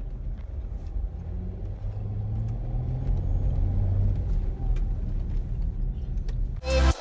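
Car on the move, a steady low engine and road rumble whose engine note rises a little midway. Electronic music cuts in just before the end.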